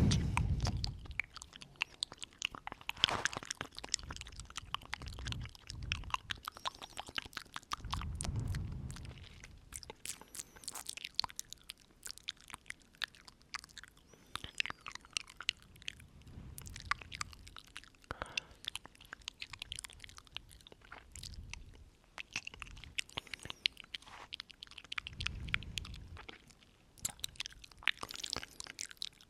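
Close-up ASMR mouth sounds: rapid wet clicks and smacks of the lips and tongue, with breaths blown onto the microphone every few seconds.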